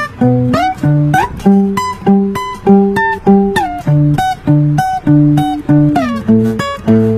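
Acoustic guitar played fingerstyle: plucked bass notes and chords in an even, funky rhythm of about two strikes a second, many notes slid up into pitch.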